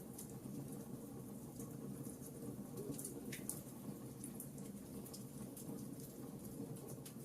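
Campfire burning: a steady low rush of flames with small crackles and pops scattered throughout, and one sharper snap about three seconds in.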